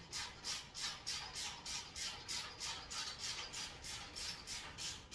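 Hand ratchet tightening the rack's bolts, clicking in quick even strokes about four to five a second.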